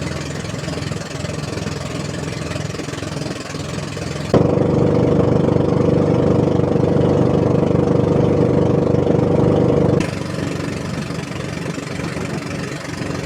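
Boat engine running steadily, louder for about six seconds in the middle, where a strong steady hum starts and stops abruptly.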